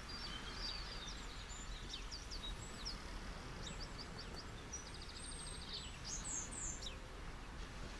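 Steady wash of beach waves with small birds chirping over it: many quick chirps, a fast trill about halfway through, and two louder chirps near the end.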